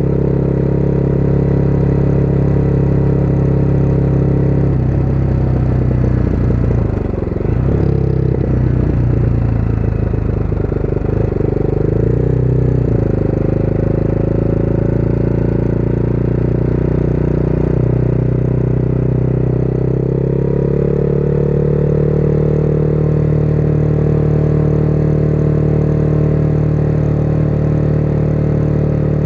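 Motorcycle engine running steadily under way. From about five seconds in, the engine note dips and wavers for several seconds, then steadies, and it climbs again about twenty seconds in as the bike speeds up.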